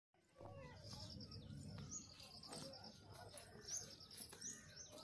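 Faint birdsong: small birds giving short, high, rising chirps again and again over low outdoor background noise.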